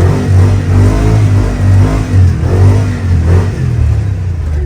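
Off-road truck engine revving, its pitch rising and falling in repeated surges under load over a heavy low drone.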